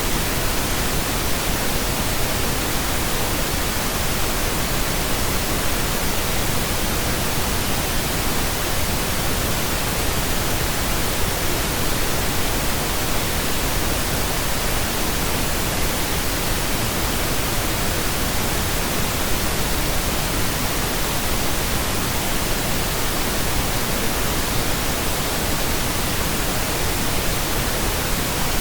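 Steady, unchanging pink noise: an even hiss that spreads from deep rumble to high sizzle, with no tones, beats or breaks.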